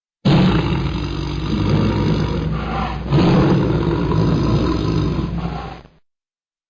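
Tiger growling loudly: two long, rough growls, the first starting suddenly just after the start and the second a little after three seconds in, stopping near the end.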